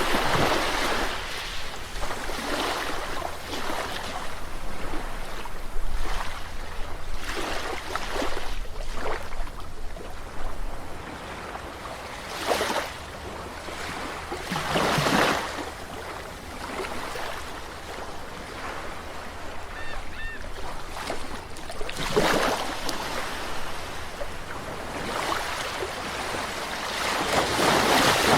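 Small waves breaking and washing on a shore, an irregular series of surges every few seconds over a steady wash of surf.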